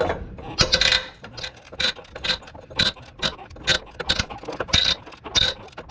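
Hand ratchet clicking in short bursts, about two a second, as it is swung back and forth on a seized nut.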